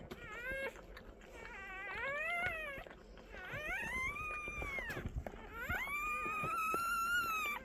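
Newborn puppies crying: about four high-pitched wailing cries that rise and fall in pitch, the last one long and held near the end.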